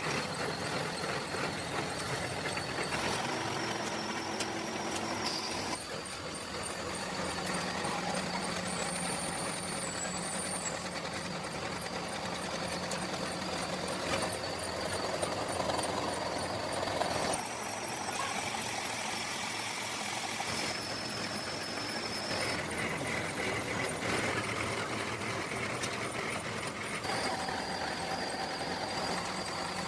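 Power machinery running steadily, a continuous motor noise with a faint high whine, its character shifting abruptly every few seconds.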